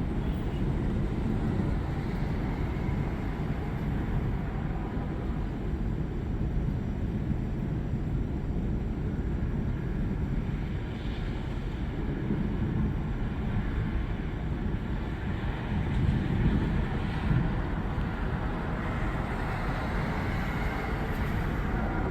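Thunderstorm outdoors: a steady low rumble with a slight swell about two-thirds of the way through and no sharp thunderclap.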